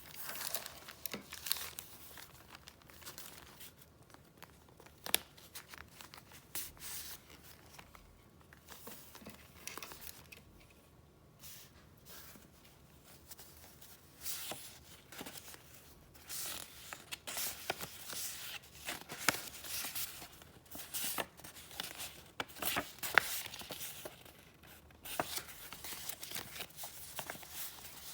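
Paper being handled close up: irregular rustling and crinkling with sharp little snaps, sparse at first and busier from about halfway through.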